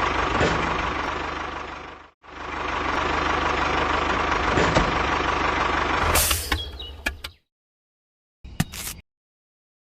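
Vehicle engine running steadily, cut off sharply about two seconds in and starting again at once. A few clicks follow as it stops about seven seconds in, then there is silence apart from a short burst of clicking near the end.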